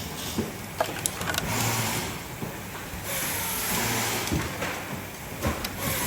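Clicks and knocks of small parts being handled and fitted, with two short runs of a small electric motor about a second and a half in and again near the middle.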